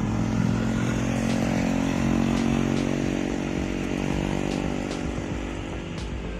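Heavy diesel truck engine labouring up a steep climb under load: a steady low engine note that slowly fades toward the end.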